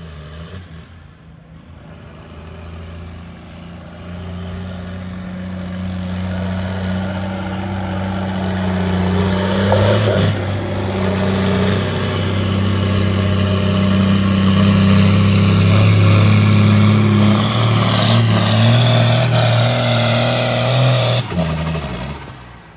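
Pulling vehicle's engine running at full throttle, dragging a weight-transfer sled down the track; it grows louder over the run and cuts off sharply near the end. The announcer judges the run short of power.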